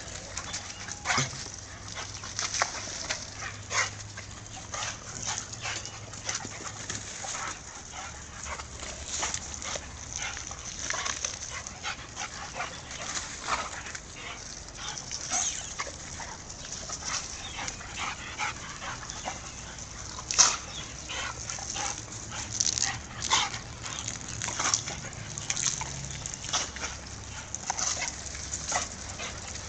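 A dog giving short barks, yips and whimpers on and off, with the loudest one about 20 seconds in.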